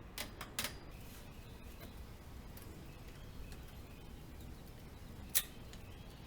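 Small sharp clicks and light ticks of hand tools and metal parts on a bicycle being taken apart: a few clicks in the first second, scattered faint ticks, and one loud click about five seconds in.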